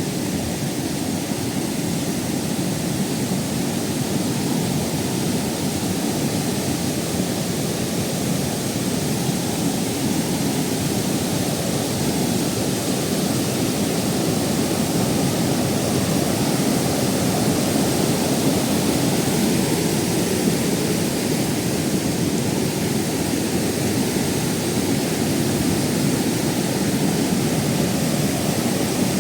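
Waterfall, a steady rush of falling water that does not let up.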